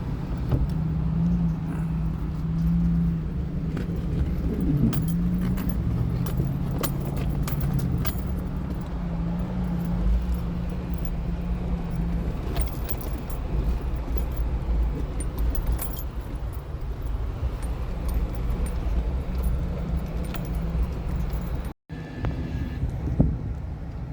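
Off-road vehicle's engine running at low, varying speed while crawling over a rocky trail, with a constant rattle and clatter from the body and loose items. The sound cuts out briefly near the end.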